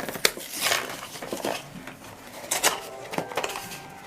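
Hands handling and opening small toy packaging: a string of sharp clicks and short rustling bursts, about five over four seconds, as small boxes and plastic are handled.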